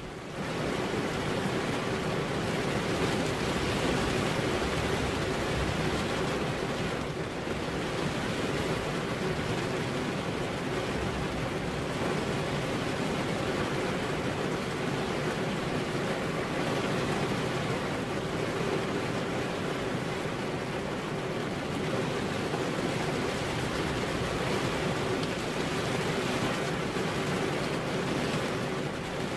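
Steady rain falling: an even, continuous hiss with no breaks.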